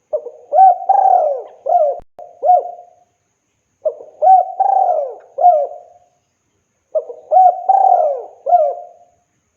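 Spotted dove (tekukur) singing its cooing call, a male calling to a female. Three phrases, each a few arching coo notes over about two seconds, with short pauses between them.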